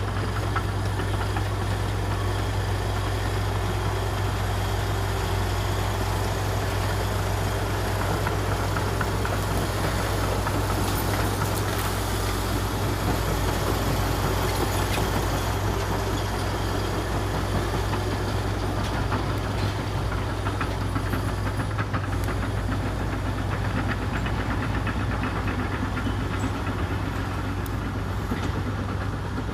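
Komatsu D61EX crawler bulldozer's diesel engine running steadily, with light clanking from the tracks.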